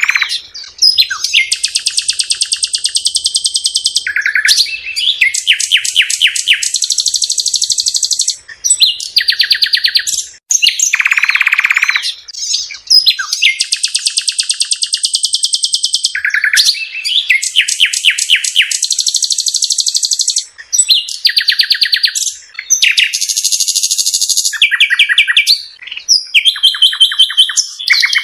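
A songbird singing close up in long, varied phrases of rapid trills, with only brief pauses between them.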